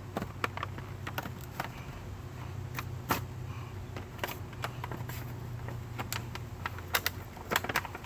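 Plastic packaging of a new motorcycle chain brush being opened by hand: irregular sharp crackles and clicks, over a steady low hum that fades out around seven seconds in.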